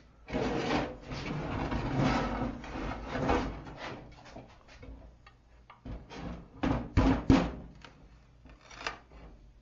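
Scored firebrick being worked by hand: a few seconds of rough scraping and rubbing of brick, then a run of knocks, several of them sharp, a little after the middle.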